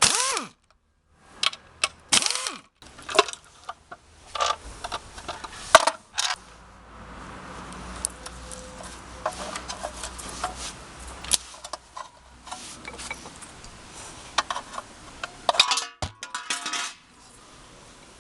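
Metal hand tools and engine parts clinking and clanking in many short knocks, some ringing briefly. The sound breaks off abruptly at a few points.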